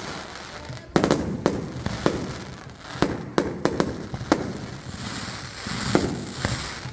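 Fireworks going off: a string of sharp bangs in quick bursts, with a high crackling hiss from the shells breaking in the sky around the fifth and sixth seconds.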